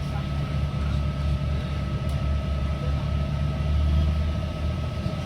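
NIR Class 3000 diesel multiple unit heard from inside the carriage while under way: a steady low drone from the engine and running gear, with a thin, steady high whine over it.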